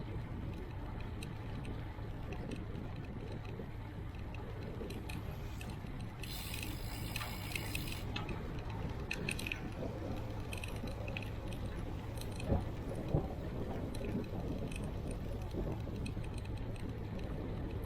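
Riding a bicycle: a steady rush of wind and road noise, with a couple of seconds of metallic jangling and rattling from the bike about a third of the way in. Two sharp knocks a little over half a second apart come about two-thirds of the way through.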